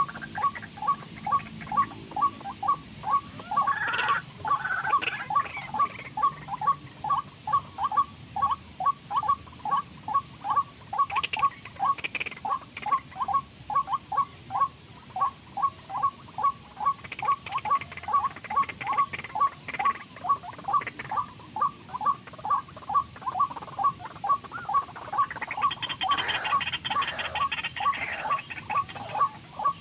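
A recorded bird call played on a loop as a trapping lure: one short note repeated very regularly, about two to three times a second. Other bird calls break in now and then, most thickly a little before the end.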